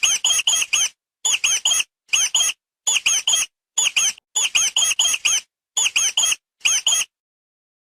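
Mouse squeaking: short, high squeaks in quick clusters of two to five, about eight clusters in all, stopping about seven seconds in.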